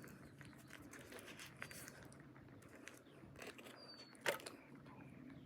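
Faint rustling and crinkling of MRE food packaging being handled, with one sharp click about four seconds in.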